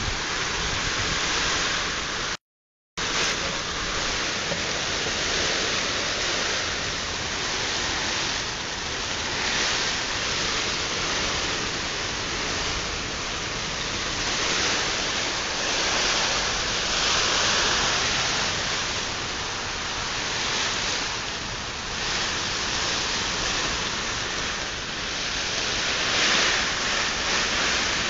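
Heavy rain from a kalbaishakhi (nor'wester) storm pouring down, a steady dense hiss that rises and falls slightly, with a brief dropout to silence about two and a half seconds in.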